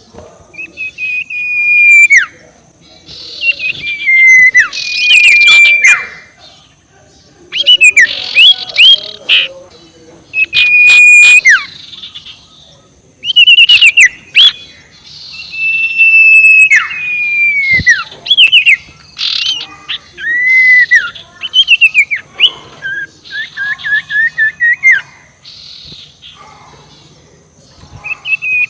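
Sirtu owl giving its cackling 'ngekek' call, a lure call to provoke rivals: repeated phrases of whistled notes that droop in pitch at their ends, mixed with rapid chattering notes, with short pauses between phrases.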